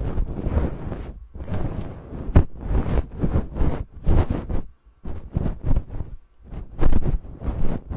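A brush or feather stroked directly over a binaural microphone as an ASMR trigger: repeated rubbing sweeps with a few short pauses.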